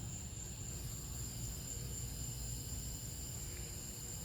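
Steady high-pitched insect chorus, like crickets, over a low rumble.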